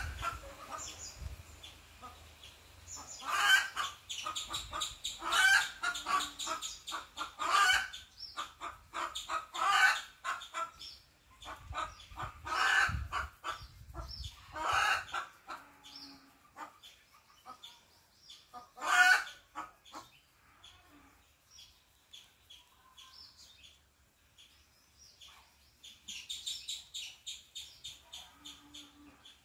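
Birds calling: a series of loud, harsh calls every one to three seconds, stopping about two-thirds of the way through, then fainter high chirping near the end.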